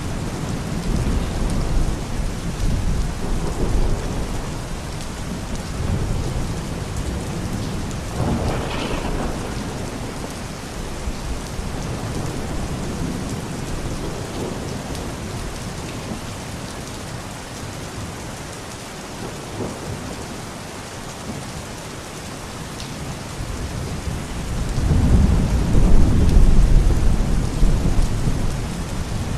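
Steady rain falling, with low rolling thunder that swells and fades, loudest about 25 seconds in.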